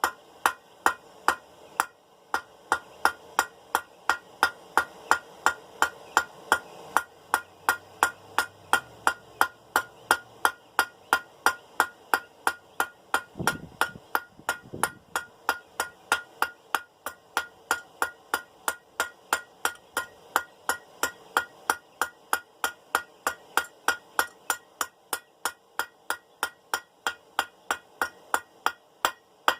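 Hand hammer striking hot steel bar stock on an anvil in a steady rhythm, about three blows a second, each blow ringing briefly.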